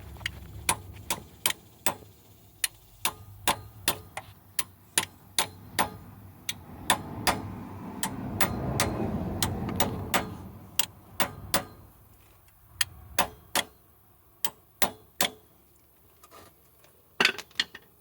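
Sharp metallic ticking from work with tools on engine parts: a run of crisp clicks, about two or three a second, broken by a few short pauses. A soft low rumble of handling noise swells around the middle.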